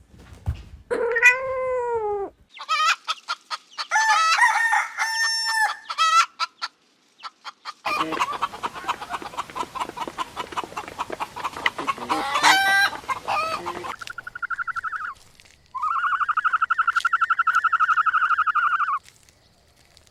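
Chickens calling: a run of quick clucks and cackles, then a rooster crowing in one long call of about three seconds near the end.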